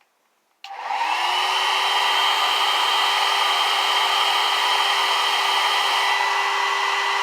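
Handheld hair dryer switched on about half a second in, its motor whining up to speed within a second, then running steadily with a rush of air.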